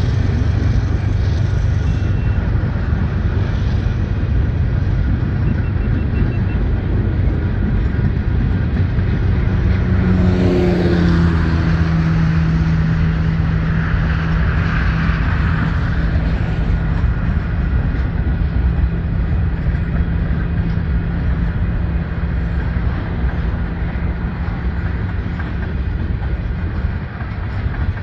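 Freight train cars rolling past: a steady rumble of steel wheels on rail as boxcars and then tank cars go by. About ten seconds in, a hum drops in pitch and then holds steady for roughly ten more seconds before fading.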